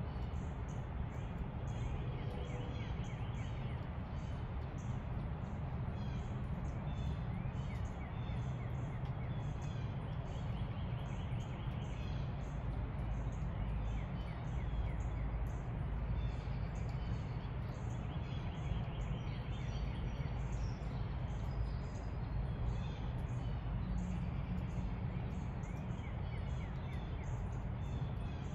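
Wild birds chirping and singing, many short high chirps with a few rapid trills, over a steady low background rumble.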